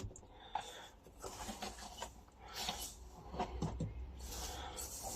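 Faint, scattered light knocks and rustles of handling over a low steady hum.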